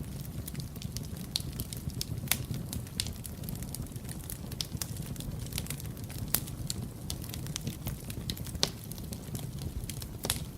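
Wood fire in a fireplace burning with a steady low rumble and irregular crackles and pops, a few of them sharper and louder.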